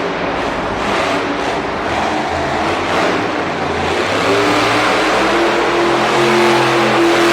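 A monster truck engine running and revving loudly. Its pitch climbs and then holds high in the second half.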